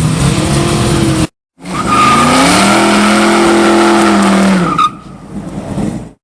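A Chevrolet Impala's engine run hard with heavy tyre noise, its pitch rising and then held high for a few seconds before dropping away. The sound cuts out for a moment about a second in and stops abruptly near the end.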